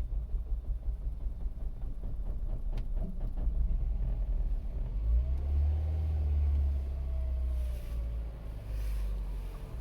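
2008 Mini Cooper S R56's turbocharged 1.6-litre four-cylinder running a rough, uneven idle just after a cold start. The engine note wavers and climbs for a couple of seconds about five seconds in, then drops back. The owner does not know the cause.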